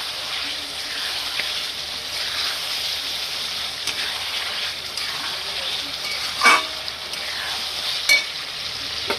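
Chicken and masala sizzling in hot oil in a pan as it is fried, with a steady hiss and stirring; a metal spatula clinks against the pan twice, about six and a half and eight seconds in.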